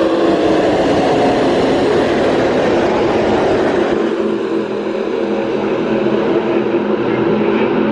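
Field of NASCAR pickup race trucks' V8 engines running at full throttle as the pack races past on the opening lap, several engine notes overlapping in one loud, continuous sound.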